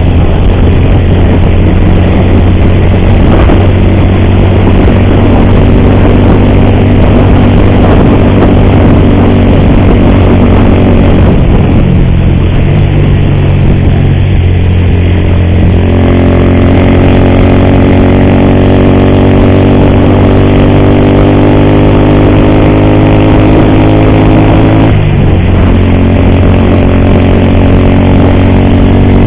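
Motorcycle engine running steadily under way, its note shifting about halfway through and again near the end. The rider blames an ugly noise from this engine on a worn timing (cam) chain.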